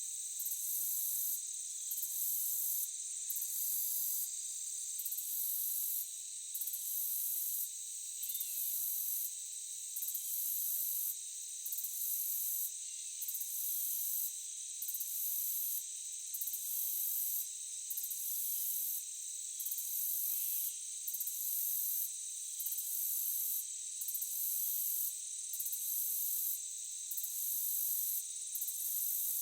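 Forest insect chorus: several insects buzz steadily and high-pitched, while a still higher trilling switches on and off about once a second.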